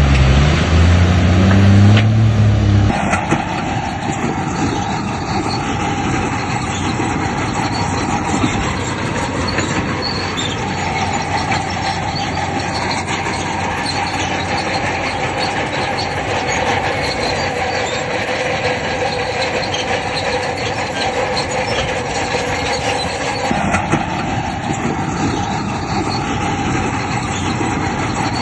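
Bulldozer at work: its diesel engine revs up for the first few seconds, then, after an abrupt change about three seconds in, steel crawler tracks clank and squeal steadily over the engine.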